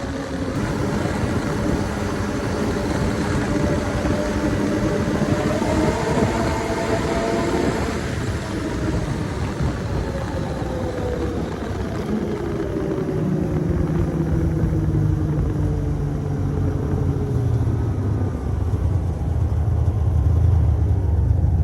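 Snowmobile engine running under way, its pitch slowly rising and falling with the throttle. A deeper low rumble grows stronger a little past halfway.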